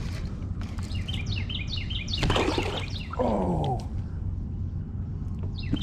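A songbird singing in repeated short chirps, with a brief rush of noise a little over two seconds in.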